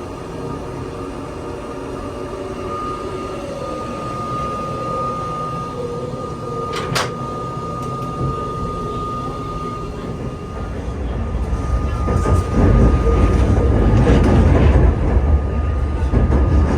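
Inside a JR Special Rapid train car running on the line: a steady rumble with a thin constant whine, growing much louder about twelve seconds in. A single sharp click comes around seven seconds.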